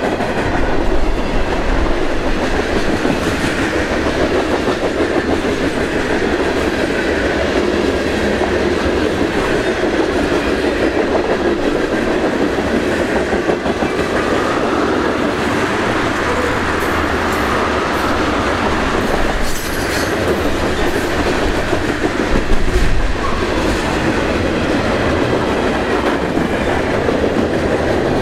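Freight cars of a long, heavy mixed freight train (covered hoppers, tank cars, gondolas and flatcars) rolling past close by: a steady, unbroken noise of steel wheels running on the rails.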